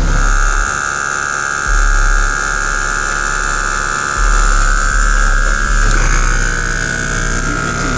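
Tow truck's loading machinery whining steadily while pulling the Range Rover aboard, with a low rumble that cuts in and out and a slight change in the whine about six seconds in.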